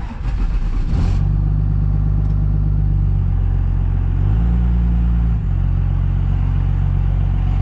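Diesel pickup truck driving down the road, its engine drone running steadily with road noise over it. The low drone deepens and grows louder for about a second, a little past the middle.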